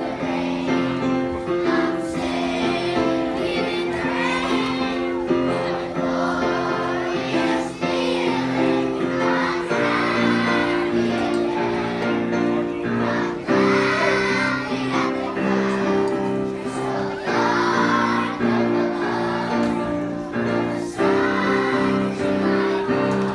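A group of young children singing a song together over instrumental accompaniment of held, changing chords.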